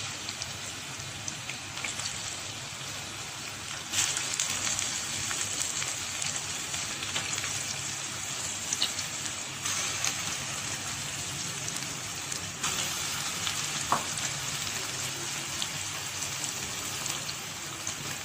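Boneless chicken pieces and chopped onion sizzling and crackling in hot oil in a pan. The sizzle is steady and swells a few times as the pieces settle, with a few light clicks.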